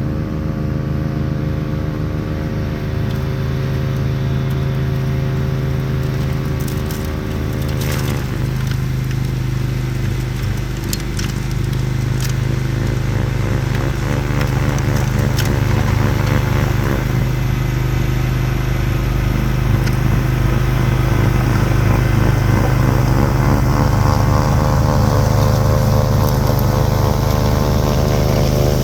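Craftsman YT4000 lawn tractor's engine running steadily while it drives a front-mounted Bercomac 44-inch snowblower through heavy wet snow. The engine note sags about eight seconds in and again around halfway, then climbs back up.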